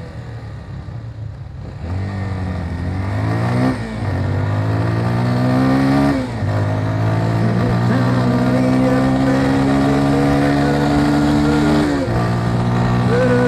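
Motorcycle engine pulling away and accelerating through the gears: its pitch climbs, drops briefly at each of three gear changes, then holds fairly steady near the end.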